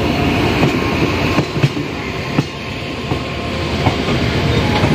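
An Indian Railways passenger train running over the rails, heard from on board: a steady low rumble with wheels clicking irregularly over the rail joints and points.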